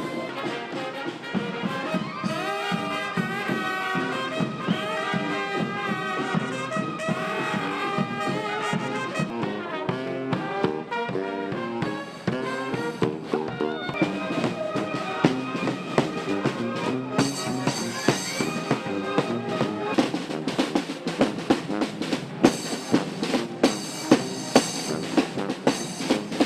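Music played by brass instruments such as trumpets and trombones over a drum kit, with the drum hits growing stronger in the second half. It cuts off suddenly at the end.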